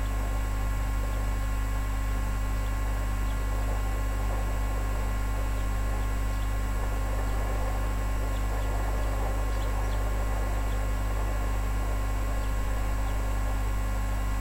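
Steady electrical mains hum with hiss from the recording gear, with a few faint, very short high ticks scattered through it.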